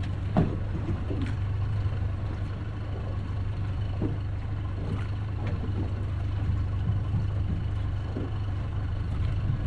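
Boat engine idling steadily, with a few faint knocks and clicks over it.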